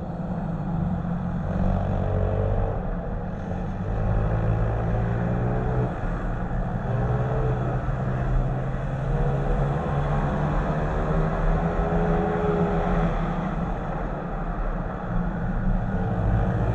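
Small pit-bike engines running hard, heard close up from the rider's own bike, the engine note rising and falling as the throttle is opened and closed through the corners, with other bikes running alongside.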